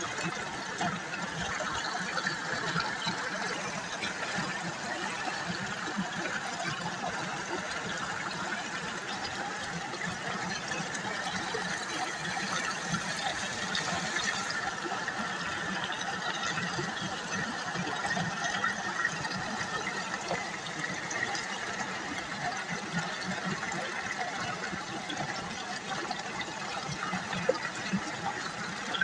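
River water babbling steadily.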